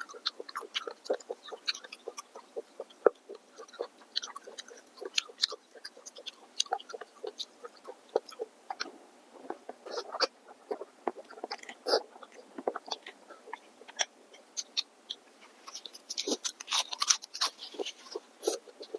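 Close-miked chewing and mouth sounds of someone eating, made up of many short irregular clicks.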